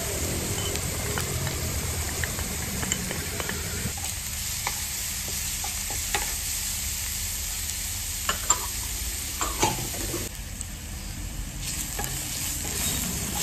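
Chopped onion and garlic sizzling in oil in a frying pan, stirred with a wooden spatula that scrapes and knocks against the pan now and then.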